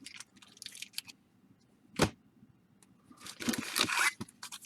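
Baseball card packs and cards being handled: scattered light clicks and crinkles, a sharp snap about two seconds in, and a longer crinkling rustle of pack wrapper about three seconds in.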